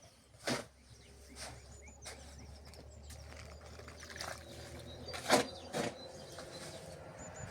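Small birds chirping in the background, with a few short, sharp knocks or scrapes: one about half a second in and two louder ones close together about five seconds in.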